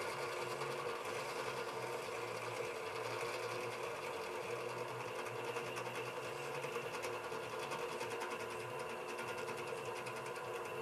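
Drill press motor and spindle running steadily, an even mechanical whir with several steady tones.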